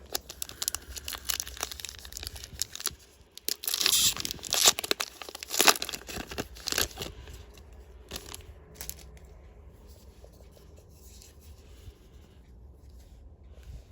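A trading-card booster pack's foil wrapper being torn open and crinkled: scattered crackles at first, the loudest tearing a few seconds in, then softer crinkling that dies away.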